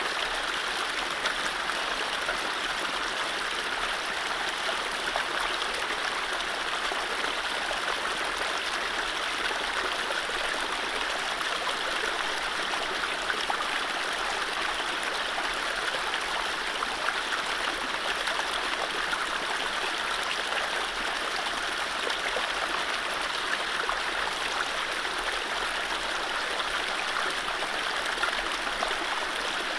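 Mountain stream running steadily over low rapids, an even rushing and gurgling of water with no birdsong.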